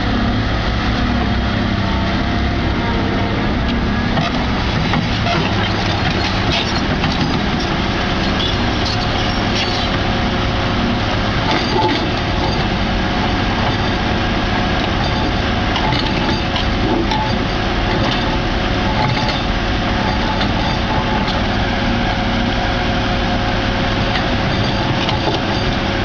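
Heavy construction machinery running: a steady diesel engine drone with a constant whine, and metallic rattling and clanking over it from about four seconds in.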